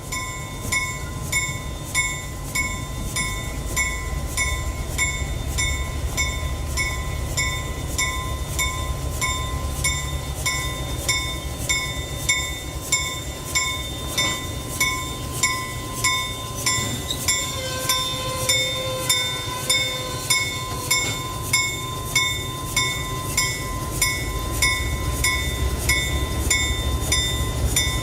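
Railroad grade-crossing bell ringing in a steady rhythm, about one and a half strokes a second, over the low rumble of a passing train.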